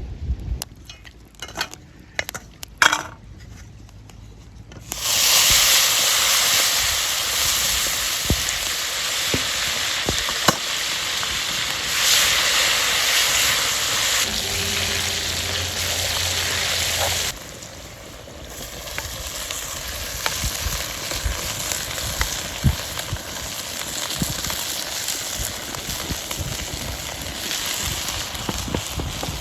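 Food frying in hot oil in a cooking pot, with stirring. A few knocks and clicks first; then about five seconds in a loud sizzle starts suddenly, and around seventeen seconds it drops to a quieter, steadier sizzle with occasional clicks.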